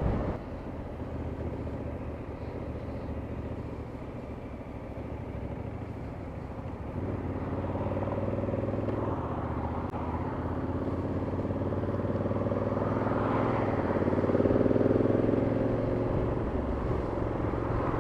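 Motorcycle engine running while riding, with road and wind noise. The engine grows louder about seven seconds in and is loudest a little past the middle.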